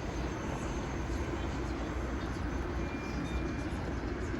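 Steady wind and road noise from a moving motorbike.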